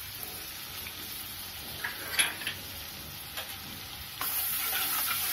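Chopped garlic and ginger sizzling in melted butter in a kadhai, with a few light taps about two seconds in. A little after four seconds the sizzle steps up louder as a metal spatula starts stirring.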